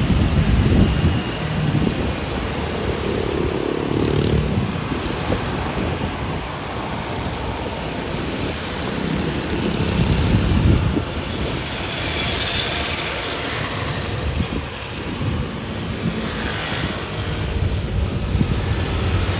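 Airliner engine noise, a steady rush, with wind buffeting the microphone in low gusts.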